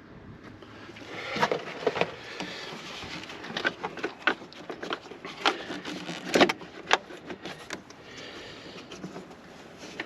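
Hands working the loosened air filter housing lid off a Mercedes 190D diesel engine: irregular clicks, knocks and light scraping, starting about a second in and dying away near the end.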